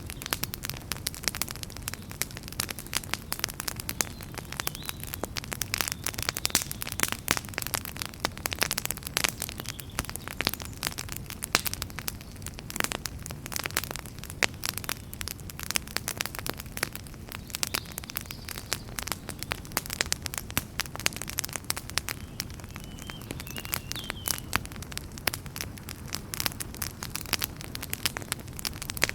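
Wood fire burning in a fireplace: dense, irregular sharp crackles and pops over a low, steady rumble of the flames.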